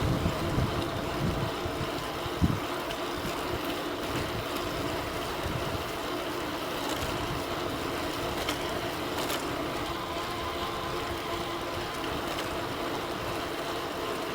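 E-bike riding with a Bafang BBS02 mid-drive motor whining steadily, and wind buffeting the microphone, most strongly in the first two seconds. A single thump comes about two and a half seconds in.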